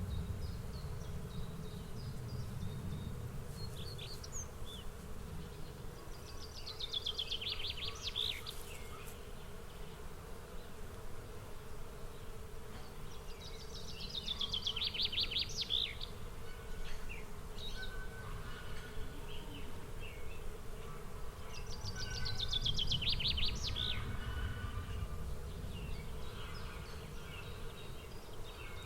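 A songbird singing a short phrase of quick notes that falls in pitch, repeated three times about seven to eight seconds apart, with fainter chirps between. Under it runs a steady low hum, which may be buzzing insects.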